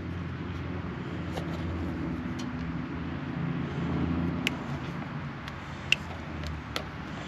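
Steady low hum of a running motor, with a handful of short sharp clicks from hand tools as insulation is stripped off a wire.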